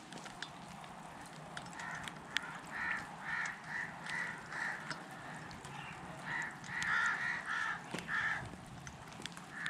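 A bird calling in two runs of short, harsh calls, about two to three a second, starting about two seconds in, over light rain dripping and pattering into puddles on a concrete roof.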